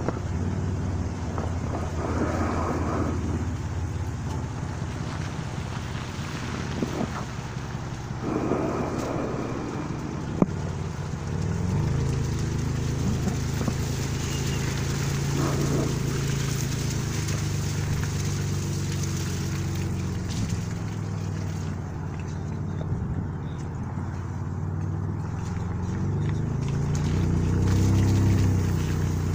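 A car engine running at low speed, its low hum shifting in pitch, rising and then falling again near the end, with faint voices in the background.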